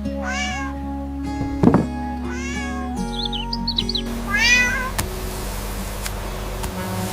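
A cat meows three times, about two seconds apart, over background music with held notes. A sharp click comes about a second and a half in, and a few high squeaky chirps follow the second meow.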